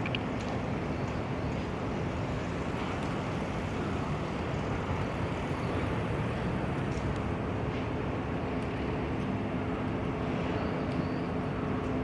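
Steady outdoor background rumble, like distant road traffic, with a faint low hum.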